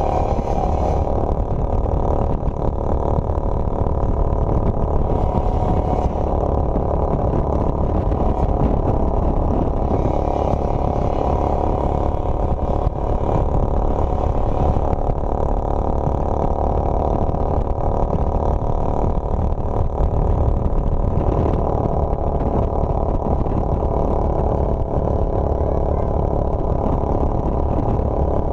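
Motorcycle engine running steadily while under way, with a heavy low rumble beneath it.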